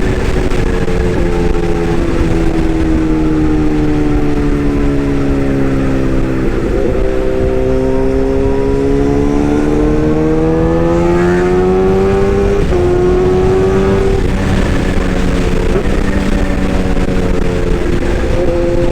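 Excavator engine running steadily, its pitch sagging slowly for several seconds, then climbing back and holding.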